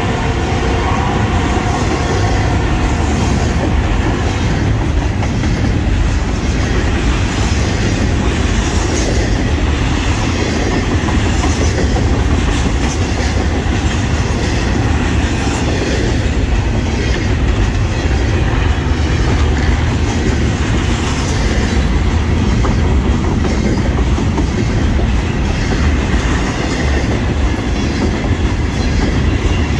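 Double-stack container well cars of a freight train rolling past close by: a steady, loud rumble with wheels clicking over rail joints. A train horn's tail fades out in the first couple of seconds.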